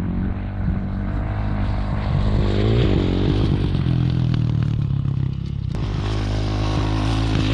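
Dirt bike engine running under way, its revs rising and falling as the throttle is worked, with a brief drop in level just past five seconds.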